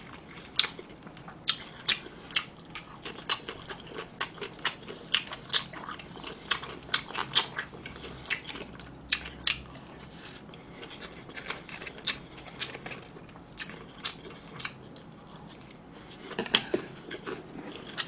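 Close-miked chewing of crisp deep-fried food, a string of sharp, irregular crunches a few times a second, sparser for a while in the middle and bunching again near the end.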